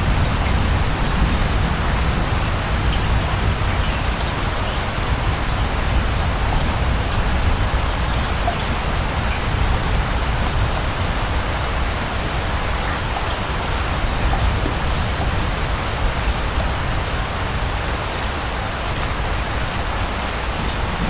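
Steady rainfall, an even hiss of rain with a low rumble underneath and scattered faint drop ticks.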